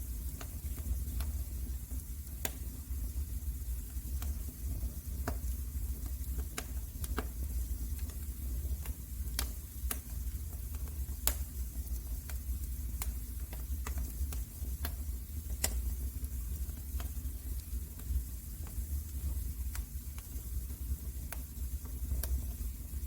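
Fireplace fire crackling: irregular sharp pops over a steady low rumble and hiss.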